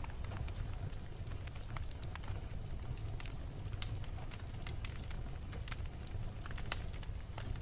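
Wood fire burning in a fireplace: a steady low rumble with irregular sharp crackles and pops from the burning logs, the loudest pop about seven seconds in.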